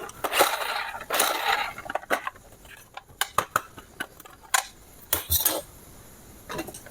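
Hard objects being handled, clicking and clattering, with a rustle lasting about a second near the start and a few sharper clicks about five seconds in.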